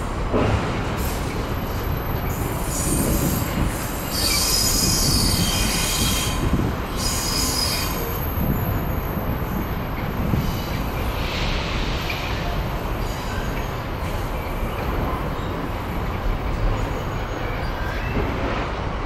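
A train passing along the line with a steady rumble, its wheels squealing on the rails. The squeal is strongest from about three to eight seconds in and comes back briefly around eleven seconds.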